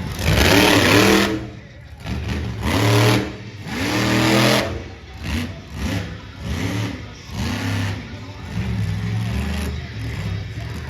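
Monster truck engine revving hard again and again, its pitch climbing and dropping with each stab of the throttle. There are big loud surges in the first half, then shorter, quicker revs.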